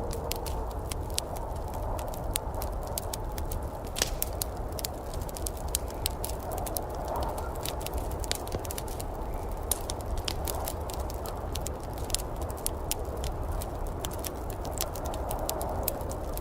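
Wood fire in a fireplace crackling, with frequent sharp pops, one louder snap about four seconds in, over a steady low rumble.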